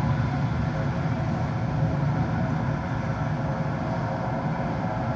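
Steady jet airliner engine noise, a continuous rushing drone.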